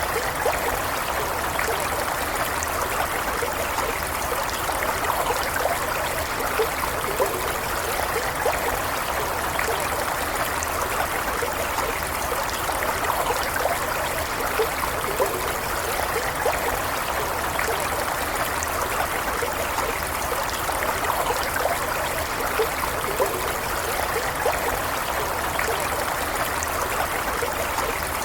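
Small stream flowing steadily over stones, a continuous babble with small trickles and splashes.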